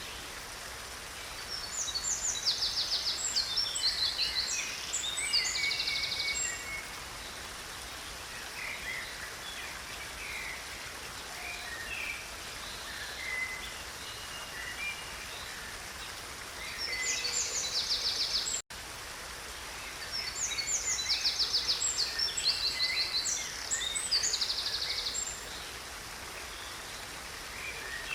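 A small stream runs with a steady rush. A songbird sings over it in three bouts of fast, high trills and chirps: near the start, at about 17 seconds, and from about 19 to 25 seconds.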